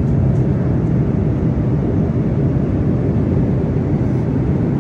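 Steady drone of an airliner cabin in flight: jet engine and airflow noise, loud and even, with most of its weight in the low range.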